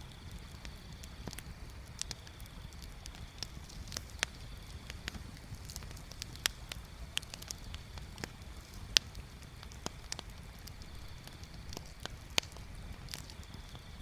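Wood bonfire crackling: irregular sharp pops and snaps of varying strength, the loudest about nine seconds in and another near the end, over a steady low rumble.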